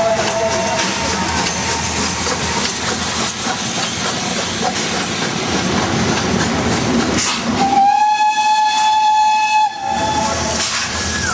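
Steam locomotive hissing steadily, with a loud steam whistle blast about eight seconds in that holds one pitch for about two seconds; shorter, fainter whistle tones sound near the start and near the end.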